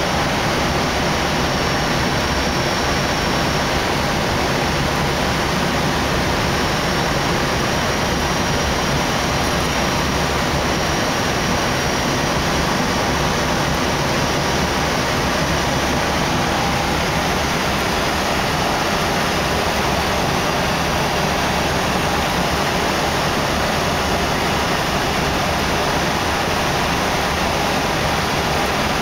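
Steady rushing noise in the cockpit of an Airbus A319 on final approach: air streaming past the nose and the running engines, with a faint high whine in the first part.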